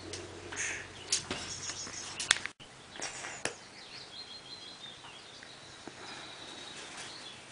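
A small bird singing: runs of quick, high, repeated chirps, with a few sharp clicks in the first half and a brief cut to silence about two and a half seconds in.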